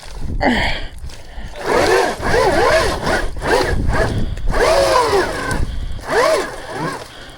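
Electric dirt bike motor whining up and down in repeated throttle bursts, each pitch rising then falling, as the rear wheel spins in thick mud, with a low churning rumble underneath.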